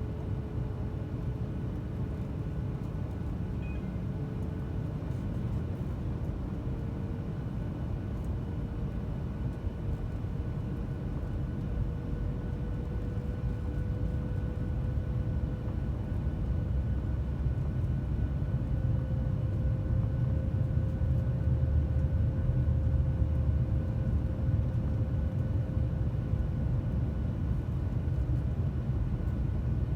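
Cabin noise of a Boeing 737-900ER in flight: a steady low rumble of its CFM56-7B engines and airflow, with an engine whine that slowly rises in pitch while the whole sound grows louder.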